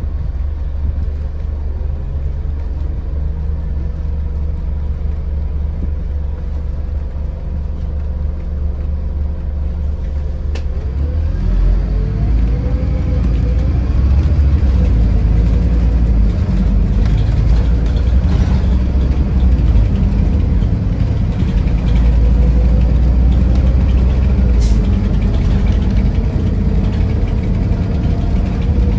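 Scania Irizar i4 coach's engine running steadily, then about eleven seconds in pulling harder and louder, with a whine that rises and falls in pitch as the coach accelerates.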